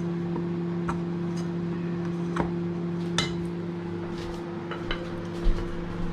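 Microwave oven running with a steady hum while meringue cooks inside, with a few light clicks and clinks over it and a low thump near the end.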